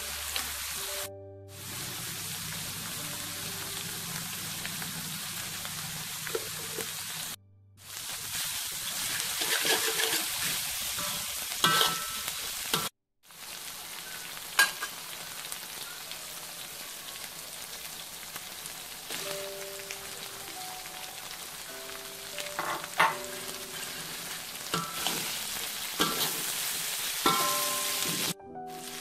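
Sambal sizzling as it fries in a wok, stirred with a metal spatula that scrapes and clicks against the pan. The sizzle is loudest about a third of the way in, and the sound drops out briefly a few times.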